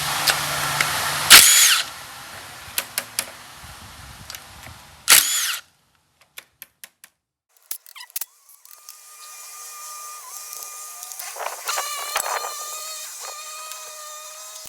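Two short, loud bursts of a power tool working on engine fasteners about a second and a half and five seconds in, with a few metallic clicks of tools being handled between them. Later a fainter steady whine with several held tones.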